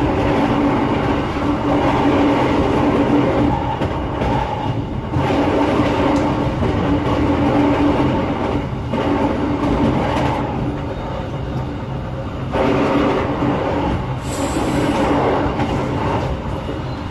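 Passenger train running along the line, heard from inside the carriage: a steady rolling noise with a constant hum through it, briefly dipping a couple of times.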